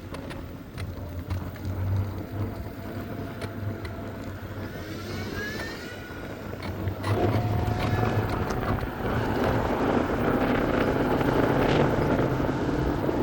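Ride noise from an electric scooter: a low hum with a brief rising whine about five seconds in, then wind and road noise that grow louder from about seven seconds as it picks up speed.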